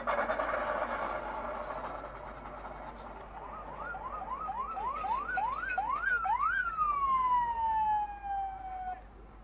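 Emergency vehicle siren: a quick run of short rising whoops, then one long falling wail that dies away.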